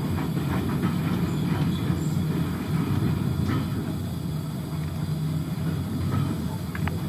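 Railway carriage running along the track, heard from inside: a steady low rumble of wheels on rails, with a few faint clicks.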